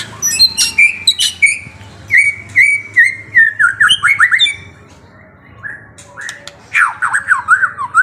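A songbird singing: quick runs of short chirps and whistled notes, a pause of about a second and a half, then another burst of falling whistled notes near the end.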